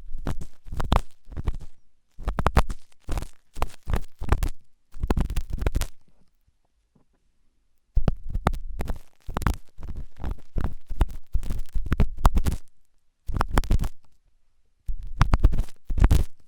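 Ear pick scraping and rubbing hard inside an ear close to the microphone, in stretches of scratchy, rumbling strokes broken by short pauses, the longest about two seconds long after the first six seconds.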